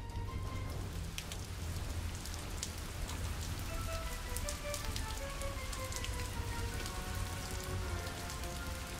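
Steady rain falling, with scattered sharp drop ticks, over faint background music.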